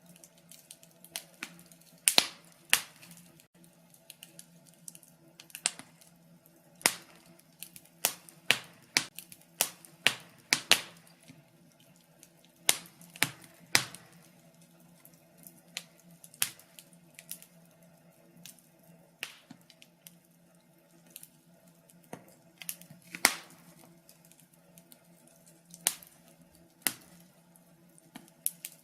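Wood fire in a fireplace crackling and popping: irregular sharp snaps, with a few louder pops about two, seven, eleven, fourteen and twenty-three seconds in, over a faint steady low hum.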